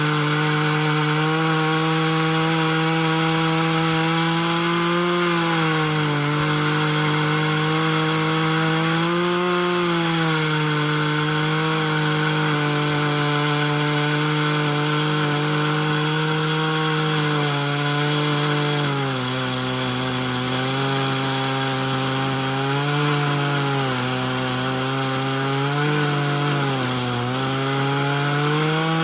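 Chainsaw mill running under heavy load, ripping a live oak log lengthwise. The engine holds one steady high note, dipping and wavering in pitch more often in the second half as the load on the chain varies.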